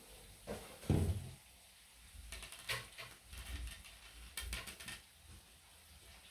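Light clicks and taps of small hard pieces being handled, with a short low thump about a second in.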